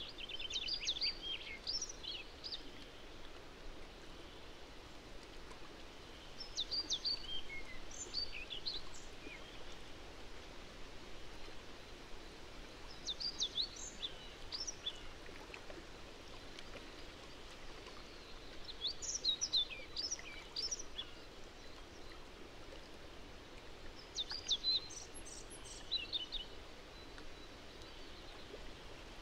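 A songbird singing short phrases of quick, high notes, five phrases about six seconds apart, over a steady outdoor hiss.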